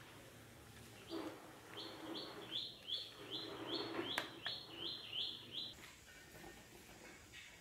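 A small bird chirping faintly: a quick run of about a dozen short high chirps, roughly three a second, then it stops. A single click about four seconds in.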